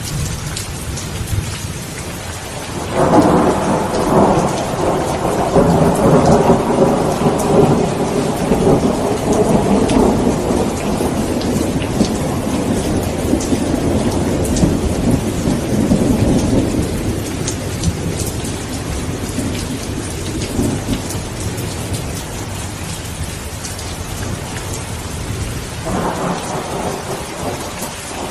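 Steady heavy rain with rolling thunder. A long rumble builds about three seconds in and slowly dies away, and another begins near the end.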